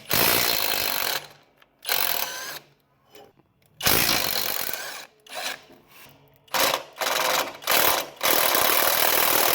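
Impact wrench hammering in repeated bursts on the mower's engine mounting bolts, about eight bursts of uneven length with short pauses between, the last and longest near the end.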